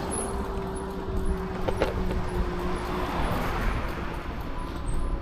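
Riding noise from an e-bike climbing a slope: a steady low rumble of wind and road on the microphone, with a steady hum that fades out about three seconds in.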